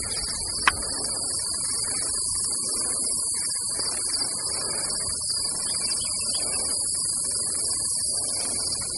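Steady chorus of insects, a constant high-pitched buzz, over irregular rustling and footsteps through brush, with one sharp click about a second in.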